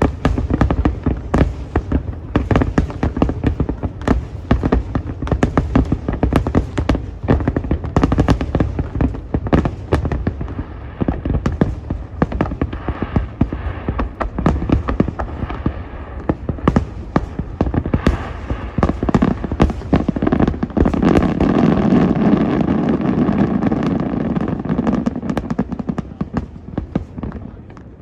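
Fireworks display: rapid, overlapping bangs and crackles, thickening into a dense, steady wash of noise about two-thirds of the way through, then easing off near the end.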